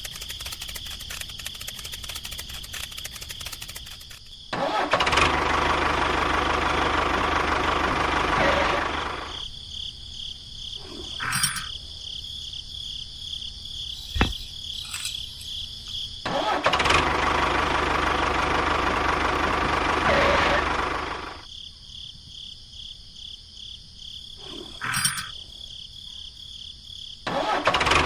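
A small motor on a miniature DIY build runs in three separate spells of about four seconds each, starting and stopping, with a few sharp clicks in the quiet gaps. Crickets chirp steadily throughout.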